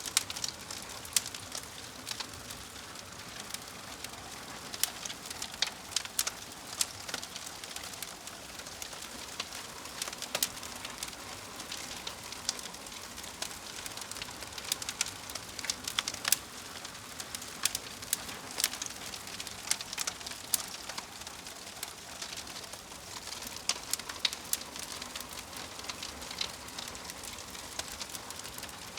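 Wood fire crackling: irregular sharp pops and snaps, several a second, over a steady soft hiss.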